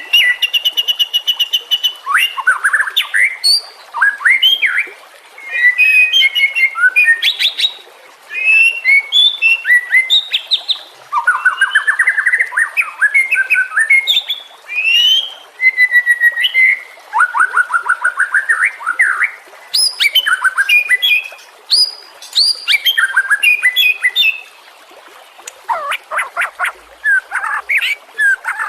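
White-rumped shama singing a long, varied song: rapid strings of notes, trills and clear whistled glides, delivered in phrases with short pauses between them.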